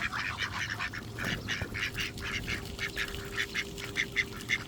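Ducks quacking in a rapid run of short calls, several a second, as they crowd in to be hand-fed.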